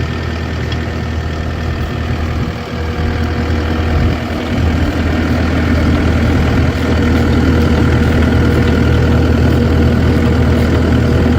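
Engine idling steadily, growing a little louder about four to six seconds in.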